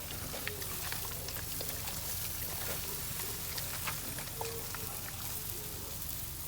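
Steady rain falling, with many small drops ticking on surfaces over a low steady rumble.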